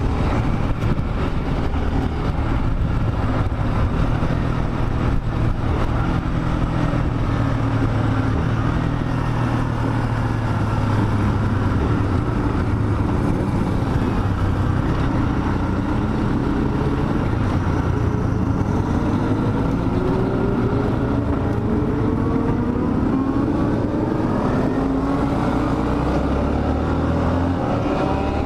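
Dafra Next 250's single-cylinder engine running at a steady cruise under a constant rush of riding wind, then its pitch climbing repeatedly in the last third as the bike accelerates.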